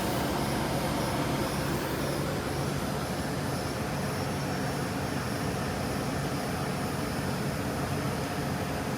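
Carrier air-conditioning condenser unit running: its two-bladed fan blowing air in a steady whoosh over a low, constant compressor hum.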